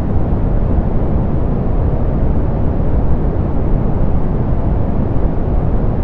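Steady soft pink noise: an even, unchanging hiss weighted toward the low end, with the highs rolled off.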